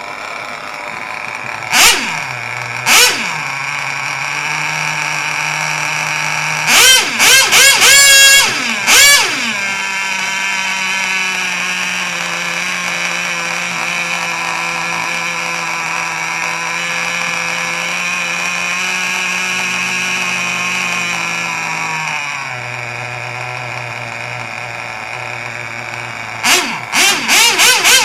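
Small glow-plug engine of a micro mini pulling tractor running at a high-pitched idle, blipped sharply to high revs a couple of times early on, in a quick burst of revs about a third of the way in, and again in a burst near the end. Between the blips it settles at a steady idle that steps up and down in pitch.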